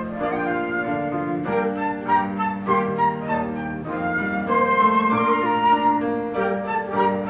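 Live instrumental ensemble music: several sustained notes sound together as a chord beneath a melody, the notes changing every half second or so.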